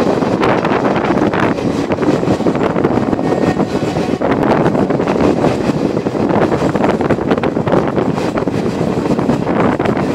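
Passenger train running at speed, heard from inside the coach by its window: a steady, loud rumble of wheels on the rails, with wind on the microphone.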